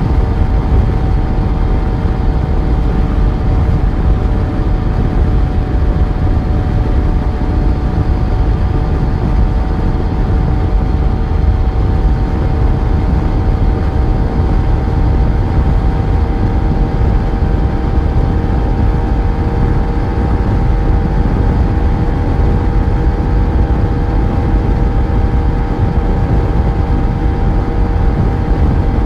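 Yamaha FZ1's inline-four engine running steadily at a constant cruising speed on the move, its pitch holding almost level with only a slight rise, over a dense low rumble.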